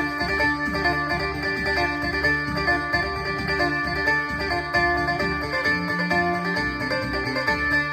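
Amplified phin, the Thai Isan three-string lute, played through a Boss amplifier: a quick run of plucked melody notes over a steady drone.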